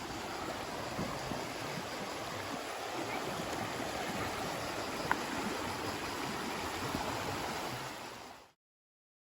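Steady rushing outdoor noise, with one faint tick about five seconds in, cutting off suddenly to silence about eight and a half seconds in.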